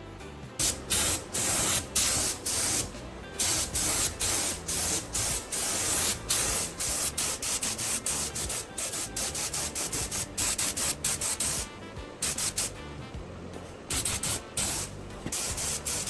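Paint being sprayed onto a car bumper in many short bursts of hiss with brief gaps between them, pausing for about two seconds near the end before a few more bursts.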